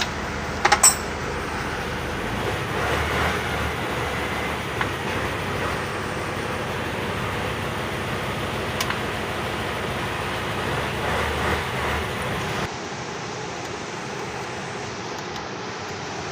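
Steady background noise like distant traffic, with a few sharp clicks about a second in. The sound drops abruptly about three-quarters of the way through.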